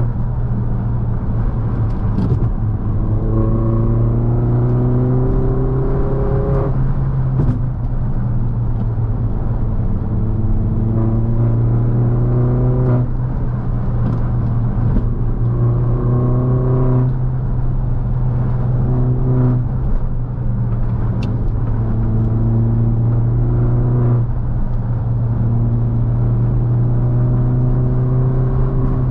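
R56 Mini Cooper S's turbocharged 1.6-litre four-cylinder engine heard from inside the cabin as the car accelerates, its note rising in pitch about six times and dropping away abruptly after each climb, over a steady low road drone.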